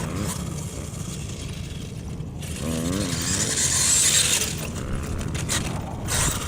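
HPI Savage Flux electric RC monster truck running, with a mechanical whirr of motor, gears and tyres. It swells about three to four seconds in as the truck speeds up, then eases off.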